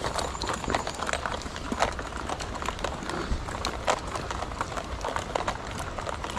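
Footsteps crunching and knocking on stony, gravelly ground, an irregular run of sharp steps several times a second.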